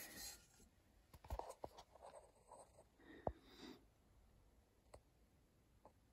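Faint handling noise: a few light clicks and knocks with soft rustling, the loudest knock about three seconds in, then a couple of fainter ticks.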